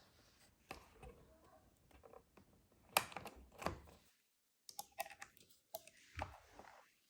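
Scattered small clicks and taps of hands handling a plastic clock-radio speaker and its charging pad while plugging in the pad's cable; irregular, with the loudest clicks about three seconds in.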